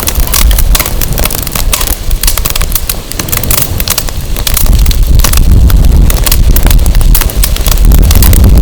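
Firewood burning in a fire pit, crackling with many sharp pops, while wind buffets the microphone with a heavy rumble. The rumble eases a little in the middle and comes back strong near the end.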